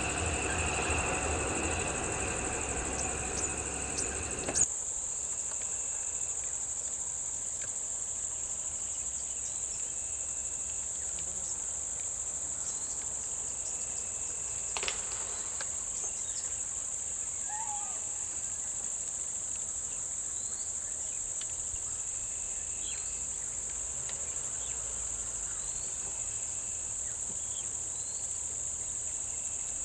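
Steady high-pitched drone of insects. A vehicle engine runs underneath for the first few seconds and cuts off suddenly about four and a half seconds in. After that the insect drone carries on alone, with a few faint chirps and one short sharp sound about halfway through.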